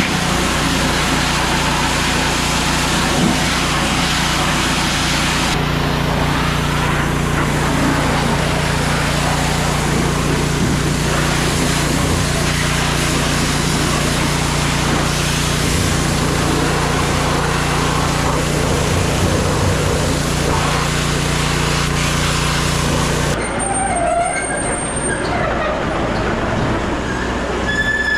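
A diesel engine running steadily under load with mechanical working noise. Near the end the sound changes abruptly, and wavering metallic squeals rise and fall over it.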